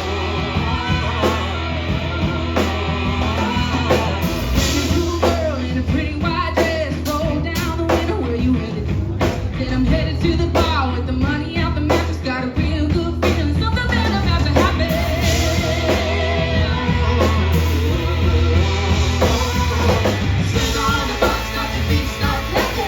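Live band playing a song: a singer over drums, with a strong, steady low bass.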